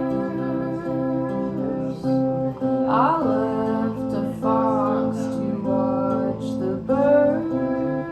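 Live folk song: an acoustic guitar playing, with a woman singing that comes in about three seconds in.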